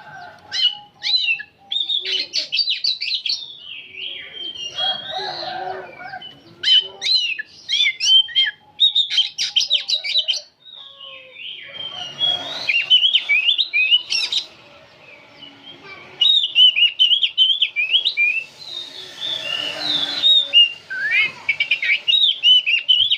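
Oriental magpie-robin singing in fast, nearly nonstop runs of chirped, chattering and whistled notes, broken by a couple of short pauses.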